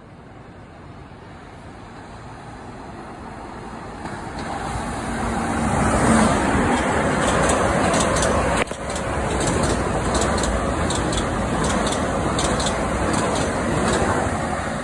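A commuter train approaching and passing close beneath, its rumble building steadily over the first several seconds and then holding loud. Rapid sharp clicking runs through the loud part.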